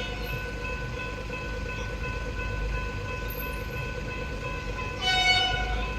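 Suburban electric train passing over a level crossing: a steady low rumble under several steady high tones. A short, louder high-pitched sound comes about five seconds in.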